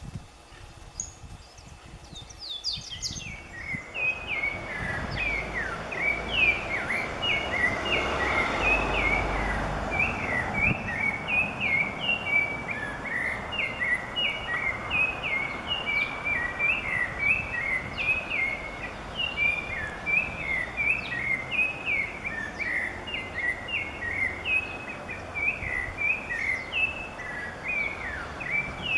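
A songbird singing a long, unbroken string of quick, short chirping notes, over a steady outdoor hiss. The song starts about three seconds in, after a few fainter, sparser calls.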